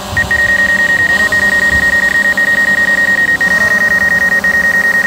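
Loud, high-pitched electronic warning beep from a DJI Mavic Air 2's remote controller, a single tone held with rapid short gaps, sounding while the drone is brought down close to obstacles for landing. A fainter lower tone beneath it dips and rises twice.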